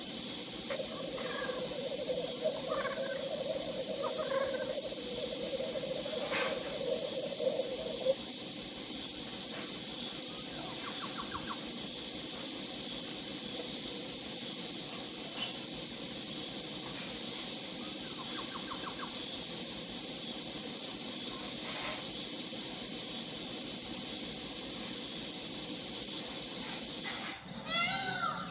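A high-pitched insect trill, steady and rapidly pulsing, that stops suddenly near the end; a few short bird chirps follow it.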